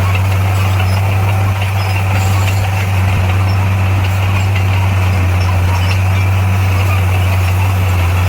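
Heavy diesel engine of earthmoving machinery running steadily at a constant speed, with a strong low hum.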